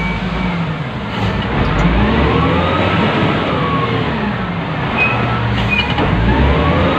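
Wheel loader's diesel engine heard from inside the operator's cab, revving up and down: the pitch climbs about two seconds in, falls back, and climbs again near the end.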